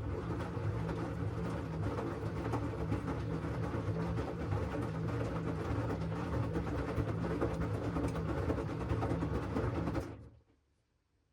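LG washing machine's drum motor running during a wash cycle, a steady low hum with the swish of the tumbling load. It cuts off abruptly about ten seconds in.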